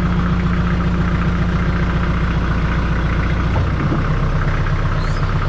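Kubota L48 tractor's diesel engine running steadily while the front loader is worked by its hydraulics; the engine note shifts slightly about three and a half seconds in.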